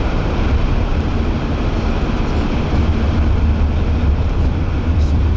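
Steady road and engine rumble of a car driving, heard inside the cabin.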